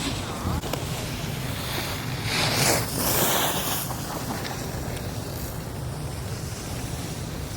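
Wind rushing over the microphone while sliding down a groomed ski slope, with the scraping hiss of edges on snow, loudest in a burst about two to four seconds in.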